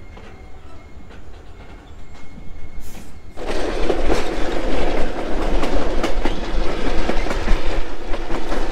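Passenger train rolling along the rails, heard from an open coach window. A low rumble with a faint thin squeal comes first. About a third of the way in it jumps suddenly much louder into a dense rushing noise full of wheel clicks.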